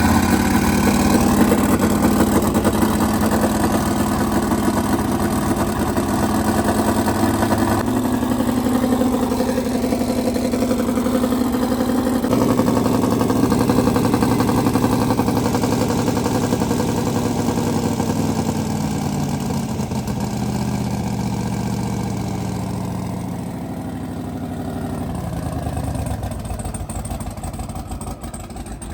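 LS V8 engine of a twin-turbo limousine running at a steady idle; over the last several seconds the idle sags and its pitch falls.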